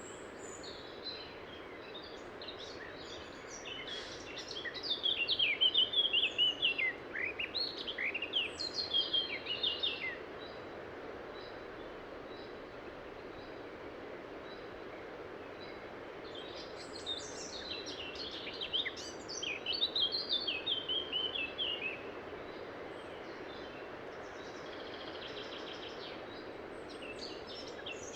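A songbird singing two long phrases of rapid, varied high notes, the first about four seconds in and the second about halfway through, over the steady rush of a river. A faint, single high note from another bird repeats at an even pace in the first half.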